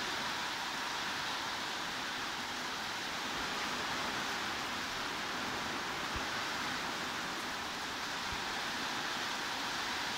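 Steady heavy rain, an even hiss that doesn't change, used as white noise.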